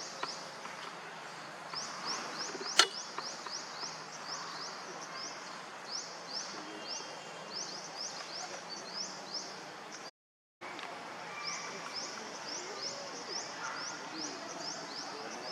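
Outdoor ambience with a continuous high chirping: quick runs of short, down-slurred chirps repeating several times a second. A single sharp click about three seconds in is the loudest thing, and the sound cuts out for half a second about ten seconds in.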